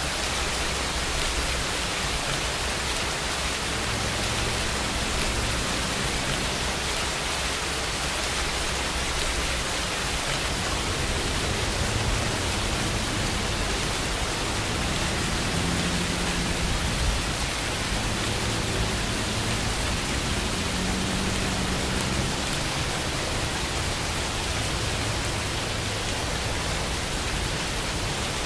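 Steady, even rain hiss with no break, with a faint low rumble coming and going underneath.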